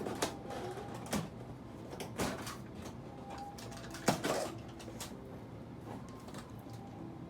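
A few scattered knocks and clicks, the loudest about four seconds in, over a low background.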